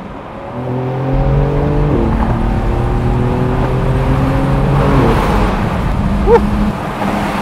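Porsche 911 Carrera S (992) twin-turbo flat-six pulling under acceleration, its note rising and getting louder. It drops with an upshift about two seconds in, rises again, drops with another upshift about five seconds in, then holds steady.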